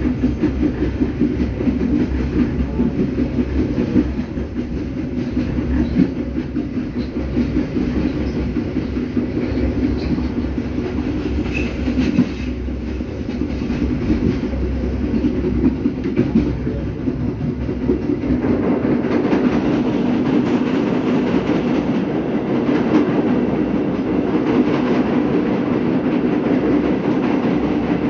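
Serayu passenger train coach running along the line: a steady rolling rumble with the wheels clattering on the rails. About two-thirds of the way through the deep rumble falls away and the clatter gets louder and brighter.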